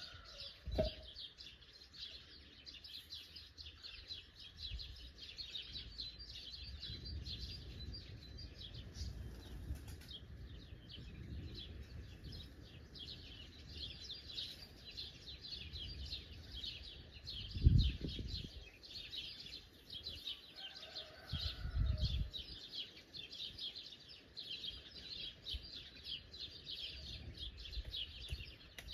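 Dense chorus of many small birds chirping continuously. A few dull low thuds cut through it, the loudest about 18 seconds in and another around 22 seconds.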